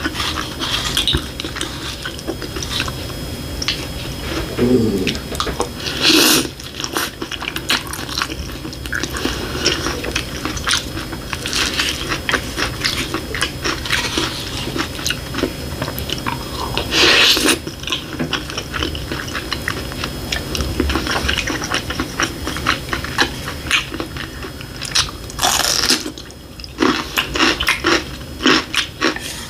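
Close-miked eating: a person chewing and biting food, with many small clicks and crackles and three louder bursts spread through, among them the tapping and scraping of wooden chopsticks and a spoon on a plate.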